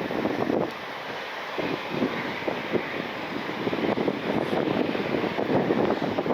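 Jet airliner engines running at a distance, a steady rushing noise, with gusts of wind buffeting the microphone.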